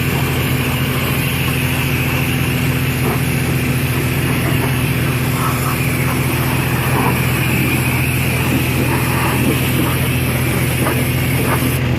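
Power washer running steadily, its engine hum under the hiss of the water jet spraying the baler; the high hiss drops away suddenly near the end.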